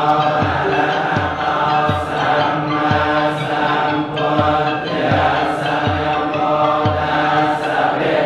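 Buddhist chanting by a group of voices, steady and continuous, with a low thump about twice a second beneath it.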